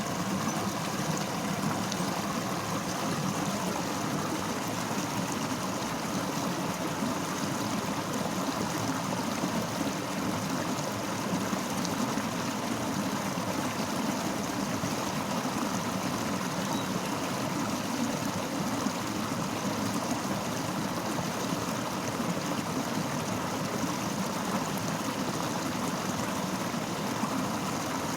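Fast-flowing river rushing steadily over its bed, a constant, even rush of water.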